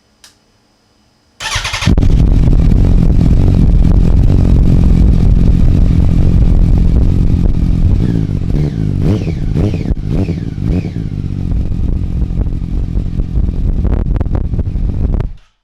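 Yamaha R1 inline-four sport-bike engine with Yoshimura mufflers, kicking in suddenly about a second and a half in and running loudly, with several quick throttle blips in the middle before it cuts off abruptly near the end.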